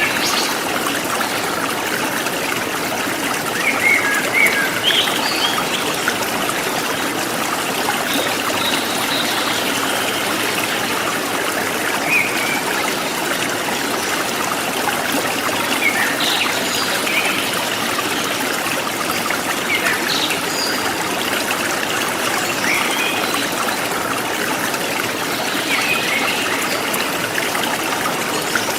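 A forest stream flowing and trickling steadily. Short bird chirps come over it every few seconds.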